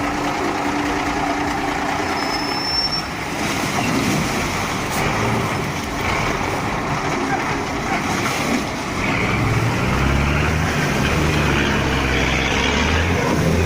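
Heavy truck engine running amid outdoor noise and people's voices. About nine or ten seconds in, a low engine drone grows louder and steadier.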